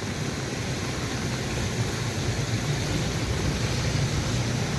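Steady rushing of a swollen monsoon river in flood, with a low steady rumble underneath.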